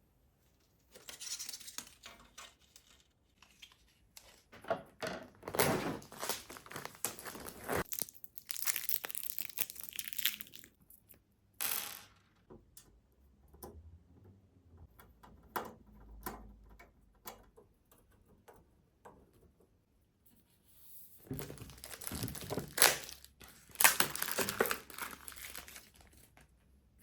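Packaging being crinkled and torn open in several bursts of rustling, with scattered small clicks and knocks between them.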